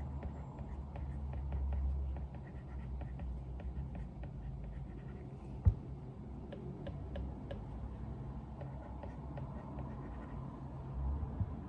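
Pen or pencil writing on paper: a run of small, quick scratching strokes over a steady low rumble, with one sharp click a little before the middle.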